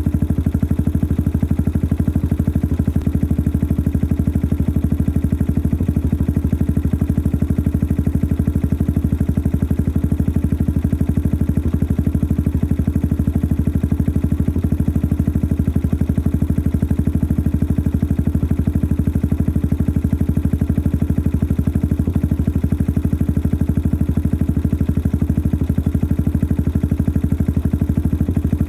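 Yamaha XT 600 43F's air-cooled single-cylinder four-stroke engine idling steadily through its modified stock exhaust, a noisy engine with an even, unchanging firing beat.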